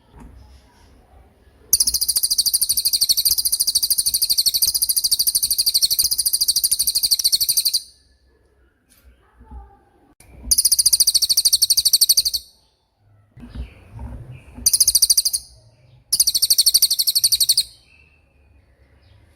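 Cililin bird singing its 'tembakan' song, a very rapid, high-pitched trill. One long burst of about six seconds comes first, then three shorter bursts with gaps between them.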